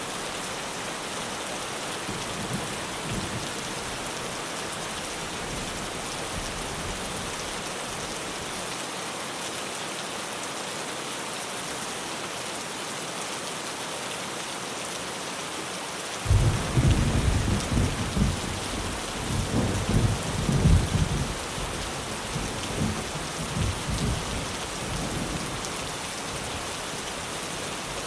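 Steady heavy rain drumming on a tin roof. About halfway through, a thunderclap breaks in suddenly and rolls on in rumbling peaks for several seconds before fading back under the rain.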